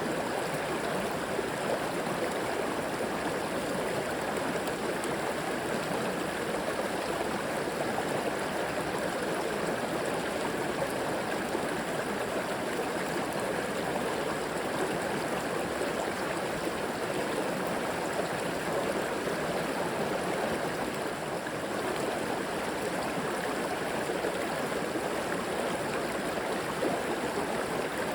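River water flowing and gurgling over rocks in a steady rush.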